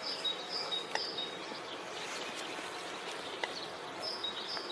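Faint steady outdoor background noise with short high chirps, from birds or insects, near the start and again near the end, and a couple of small clicks.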